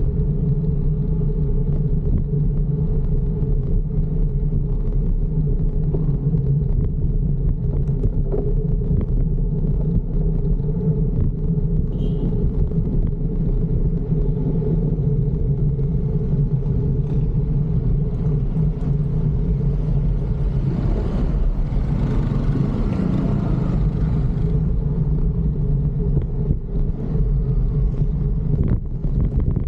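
Steady road and wind rumble picked up while riding a fixed-gear bicycle through city traffic, with a louder rush of noise about two-thirds of the way through.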